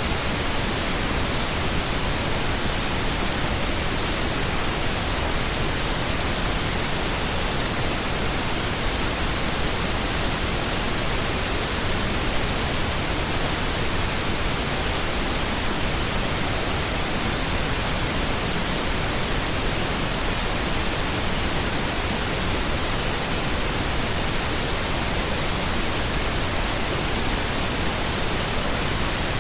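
Steady pink noise: an even, unbroken hiss spread evenly across the range, with no changes or events.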